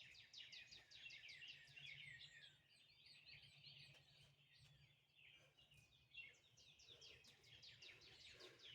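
Faint birds chirping and twittering: rapid runs of short, falling notes, heard in the first few seconds and again near the end, over a faint low hum.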